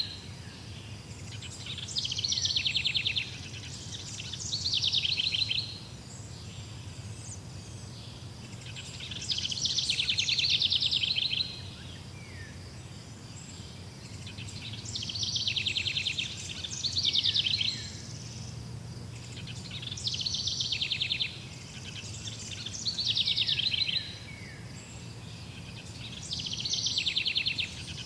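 A songbird singing short, rapid trilled phrases, one every two to three seconds, some ending in quick falling notes, over a steady low background rumble.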